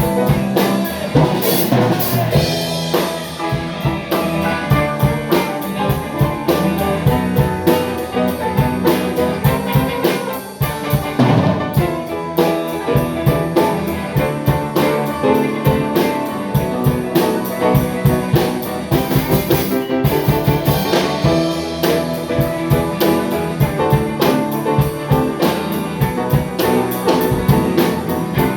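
A band playing a song on drum kit and guitar, with a steady drum beat.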